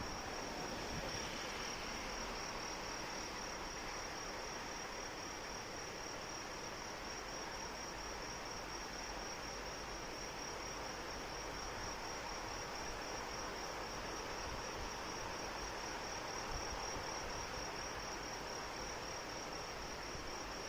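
Steady rain falling, with insects giving a continuous high-pitched trill of rapid even pulses over it.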